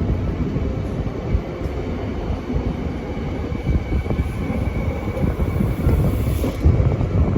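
Parramatta Light Rail test tram running along the track: a steady low rumble with a faint, steady high whine above it.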